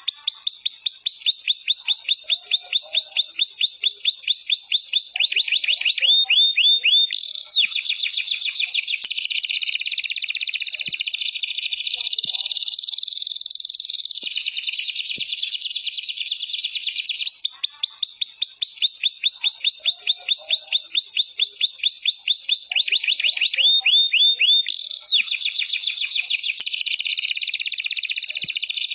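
Domestic canary singing nonstop: long, rapid high-pitched trills run into one another, broken twice by a short run of falling whistled notes. The same sequence of phrases comes round again about 18 seconds later, as a looped training recording.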